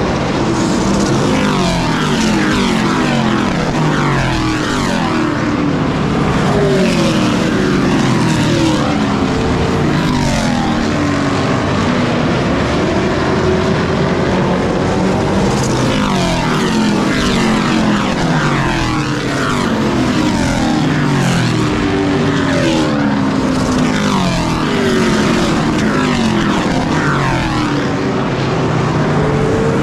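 Several race truck engines running together at full power, with many overlapping pitch sweeps that repeatedly fall away.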